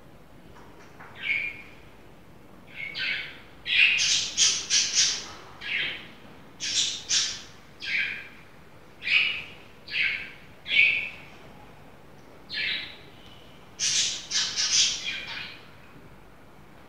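A bird chirping in many short, high calls, some in quick runs of three or four, with brief pauses between.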